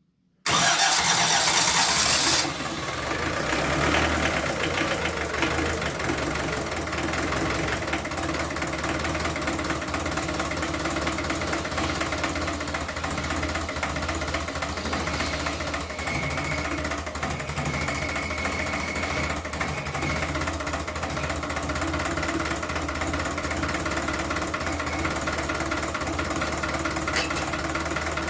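Fiat 415 engine cold-starting at −7 °C: it bursts into life about half a second in, loud and rough for the first two seconds, then settles into a steady idle.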